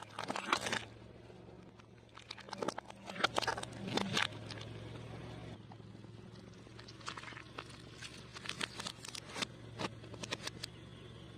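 Fried food and snacks crackling and crunching as they are crushed under a car tyre, in three bursts of sharp crackles. A steady low hum runs underneath.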